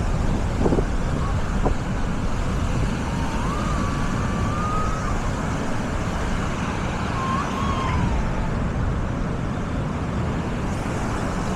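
Busy beach ambience: a steady wash of waves and wind noise, with distant voices calling out a few times.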